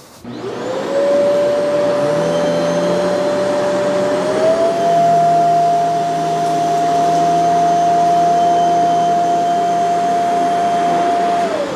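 Shark CZ351 pet canister vacuum switched on, its motor winding up to a steady whine, the pitch stepping up slightly about four seconds in, as it makes a single cleaning pass over a dirty rug. Near the end it is switched off and the whine falls away.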